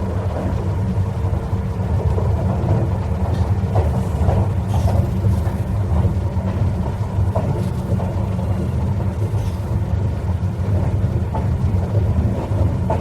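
Train rolling on rails: a steady, heavy rumble with a few faint sharp squeaks and clicks from the wheels and track along the way.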